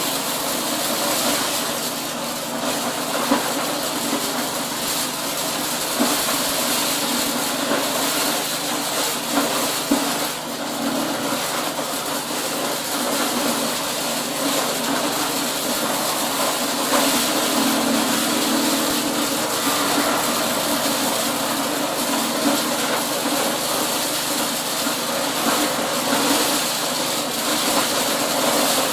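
Corn shelling machine running steadily: a constant mechanical drone with a dense rattling hiss, and a few sharp knocks.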